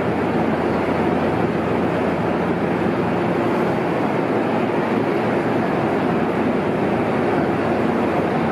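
Electric train noise at a station: a steady rumble with a low hum, holding an even level throughout.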